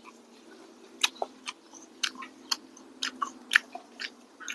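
A person chewing crispy fried fish: a quick series of sharp crunches, about two or three a second, starting about a second in.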